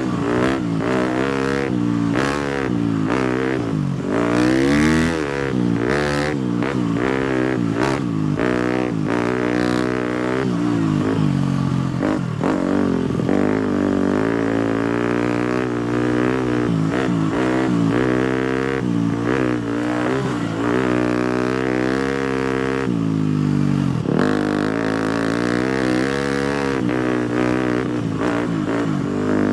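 A 250 cc single-cylinder four-stroke motocross bike being ridden, its engine repeatedly revving up and dropping back as the rider works the throttle and gears, with brief dips where the throttle is rolled off.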